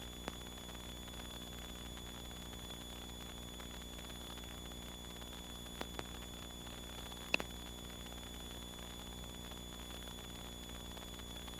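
Steady static hiss from a light aircraft's radio and intercom audio feed between transmissions, with a few faint clicks, the loudest a little past the middle.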